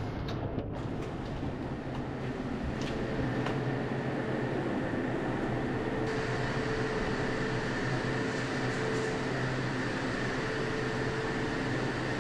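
Steady drone of running machinery: a continuous low hum carrying a few constant tones, with a few faint ticks in the first seconds.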